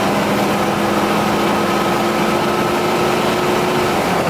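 Steady in-cabin drone of a 1978 Mercury Colony Park's 460 big-block Ford V8 cruising at road speed, mixed with road and wind noise, with a few low hums held at one pitch. It runs smoothly.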